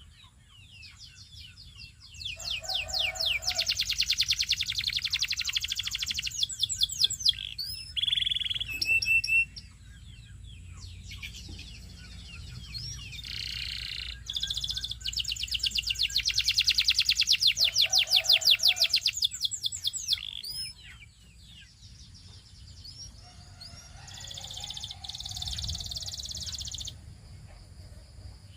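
Canary singing: long, fast trills of rapidly repeated high notes, broken by short whistled notes and brief pauses. The two longest trills come a couple of seconds in and about midway.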